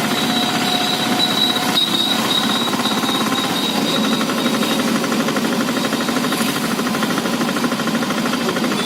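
A vehicle's engine running steadily with a rapid, even knocking beat. A faint high whine is heard over it for the first half.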